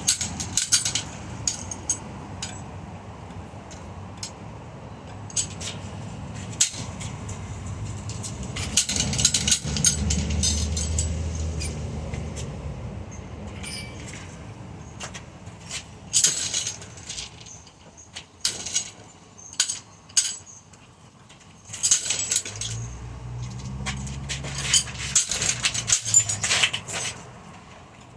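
A ceiling fan being smashed apart: repeated hard knocks, with metal clanking and rattling. A low hum rises and fades twice.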